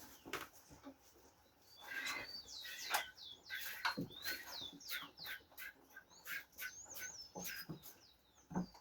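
Birds chirping over and over, from about two seconds in: many short, high notes that bend up and down, mixed with sharp clicks.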